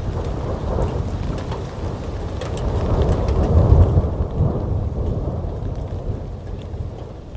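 Rolling thunder rumbling through a heavy downpour: the deep rumble builds to its loudest about halfway through, then fades away. Steady rain hiss runs beneath it, with sharp ticks of drops striking close by.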